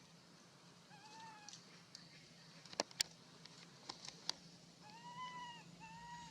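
Baby monkey giving short, high, arched crying calls: one about a second in and two close together near the end, with a few sharp clicks in between.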